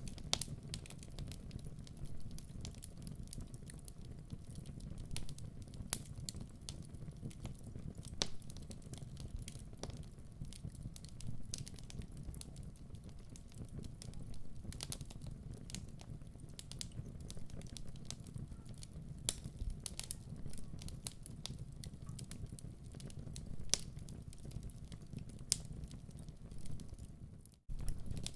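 Wood fire crackling in a fireplace: irregular sharp pops and snaps over a low, steady rumble. The sound drops out for an instant near the end and then resumes.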